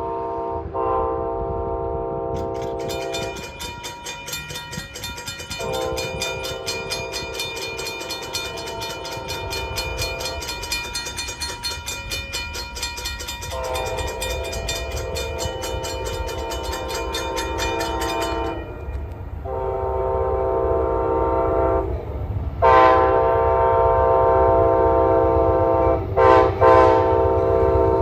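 Amtrak locomotive horn blowing a series of long blasts with a few short breaks, the crossing signal as the train approaches. A grade-crossing bell rings rapidly from about two and a half seconds in until about two-thirds of the way through. The rumble of the passing train builds near the end.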